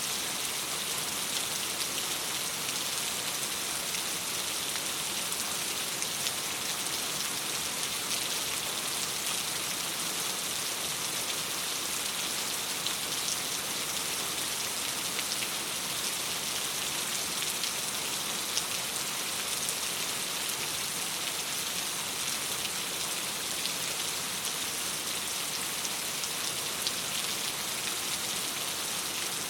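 Steady rain on window glass: an even hiss with small scattered ticks of drops.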